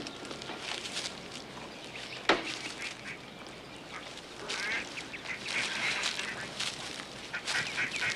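Birds calling in short repeated bursts, bunched in the second half. A single sharp knock sounds about two seconds in.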